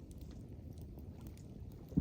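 Campfire crackling faintly, a few scattered ticks over a steady low rumble.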